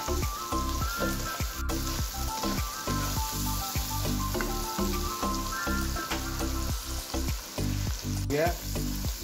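Onion-tomato masala sizzling in hot oil in a non-stick wok, stirred and scraped with a slotted spatula. Background music plays underneath.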